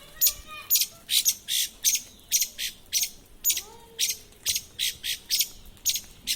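A bird calling over and over in short, sharp, high chirps, about three a second.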